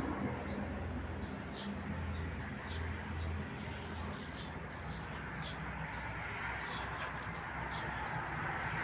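Birds chirping outdoors: short high chirps repeated every half second to a second, over a low steady hum.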